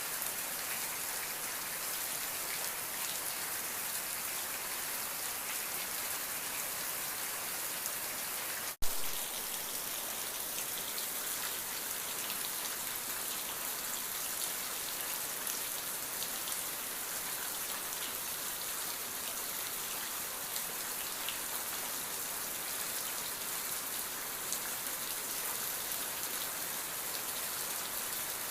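Steady rain falling, an even dense hiss of drops with fine pattering ticks. It is broken once, about a third of the way in, by a split-second dropout and a sharp click.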